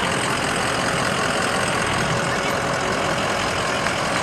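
Large tow truck's engine running steadily.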